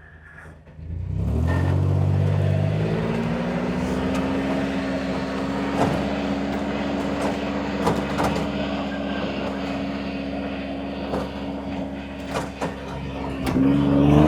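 An engine or motor starts up and spins up, its pitch rising over about a second and a half, then runs at a high steady speed. Near the end its pitch dips briefly and climbs back, with a few scattered knocks.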